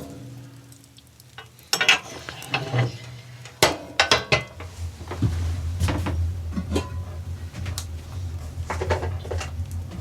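Metal cookware and utensils clinking and knocking in a string of separate sharp strikes. A steady low rumble starts about halfway through.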